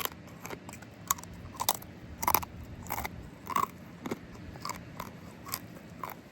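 Close-miked chewing and crunching of food, with irregular short crunches and mouth clicks about every half second.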